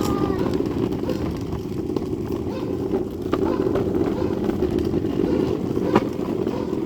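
Steady low rumble of a moving vehicle, road and engine noise, with a single sharp click about six seconds in.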